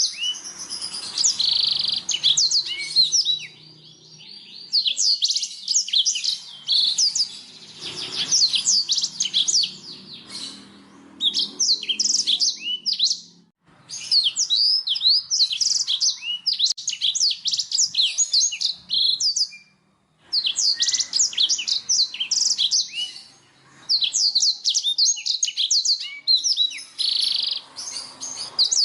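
Black-throated canary (blackthroat) singing: long runs of rapid, high twittering notes in phrases of a few seconds, broken by short pauses.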